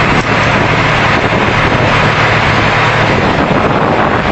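Loud, steady rushing noise with no clear individual sounds in it.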